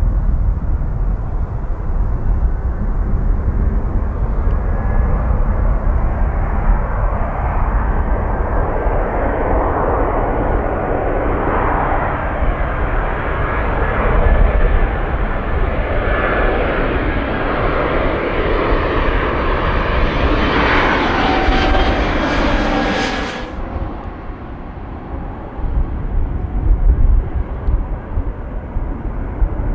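Jet airliner engines growing steadily louder as the aircraft comes close, with a thin steady whine over the rush. The engine sound stops abruptly about three quarters of the way through. Heavy wind buffets the microphone as a gusty low rumble throughout.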